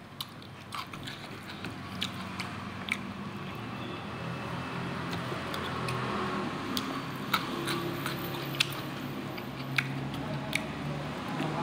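Close-up eating sounds of a man eating rice with his fingers: wet chewing with sharp mouth clicks and smacks scattered throughout. A low hum grows underneath from about four seconds in.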